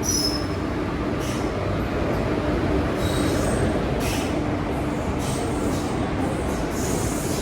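Passenger train running on the track: a steady rumble of wheels and coaches, with a few brief high-pitched wheel squeals.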